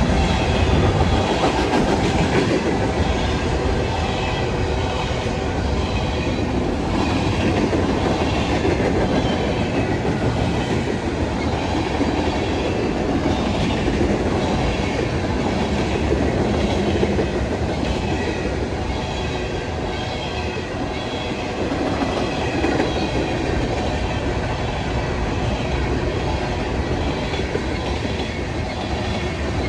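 A train rolling steadily along the track, its cars and wheels running continuously without a break.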